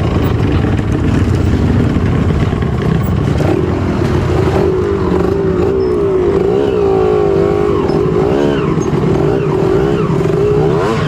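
Off-road trail motorcycle engine running hard, its revs rising and falling over and over from a few seconds in, as the bike labours through mud.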